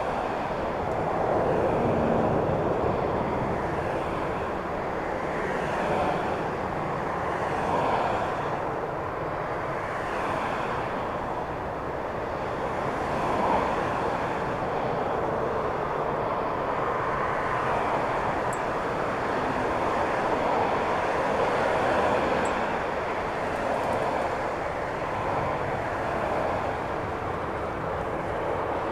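Jet airliner engines running, a steady noise that swells and eases slightly.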